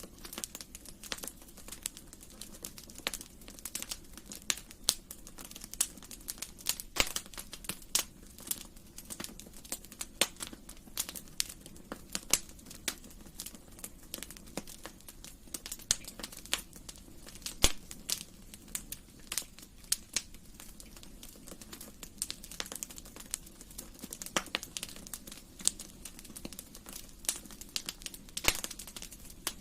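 Wood fire in a fireplace crackling: many sharp, irregular pops and snaps over a soft, steady low rumble of the burning.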